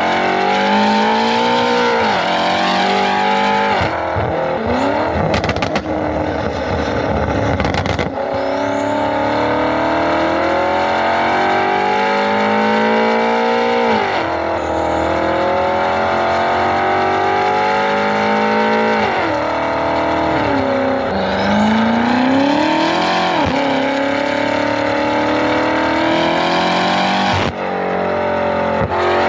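BMW M5 with a Valvetronic valved exhaust screaming at full throttle. Again and again the revs climb steadily, then drop sharply at each upshift. A rough, crackly stretch with sharp cracks comes about four seconds in.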